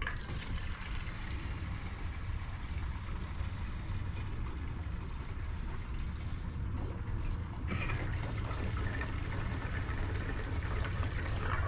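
Gasoline being poured into the fuel tank of a Honda EU2000i inverter generator: a steady pouring stream, getting a little louder after about eight seconds.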